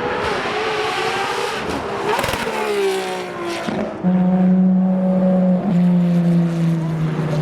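Ferrari FXX-K Evo's naturally aspirated V12 engine. Its note falls in pitch over the first few seconds, then from about four seconds in it settles into a loud, steady low drone, briefly broken around five and a half seconds in.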